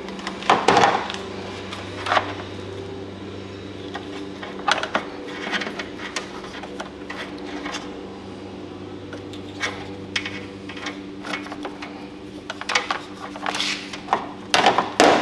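Small tools and wiring parts being handled: irregular clicks, taps and rubs, with louder clusters about half a second in and near the end, over a steady low electrical hum.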